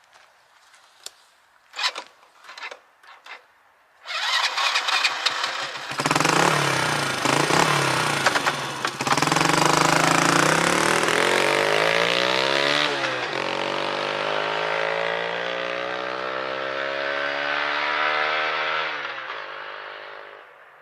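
A few light clicks, then the Honda Super Cub's single-cylinder engine, fitted with an aftermarket up-muffler, accelerating at full throttle: the exhaust note climbs in pitch, drops once partway through as it shifts up, climbs again, then fades away near the end.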